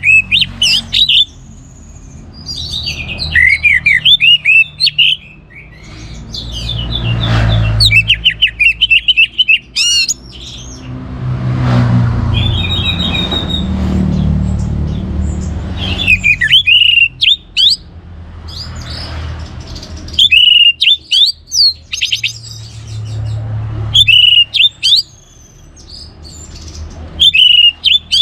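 Orange-headed thrush singing loud bursts of quick, varied, high phrases, a new burst every few seconds. A low rumble runs in the background between phrases.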